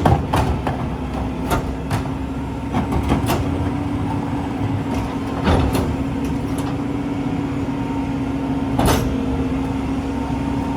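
Mack LEU rear-loader garbage truck with E-Z Pack body running, with a steady whine held throughout. Scattered metallic clanks and bangs sound over it, the loudest right at the start and about nine seconds in.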